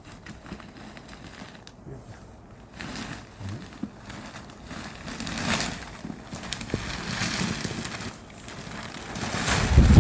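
Snow being shovelled and cleared: crunching and scraping that swells in several bouts, with a loud low buffet on the microphone near the end.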